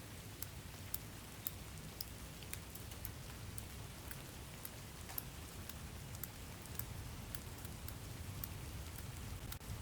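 Steady rain, with individual drops ticking sharply and irregularly over a low, even wash of noise.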